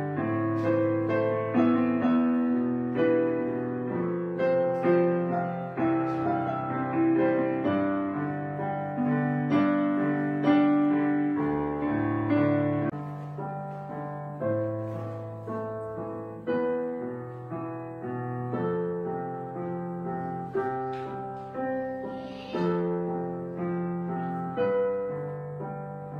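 Background piano music, gentle and unhurried, with notes struck and left to ring and a low bass line under a melody.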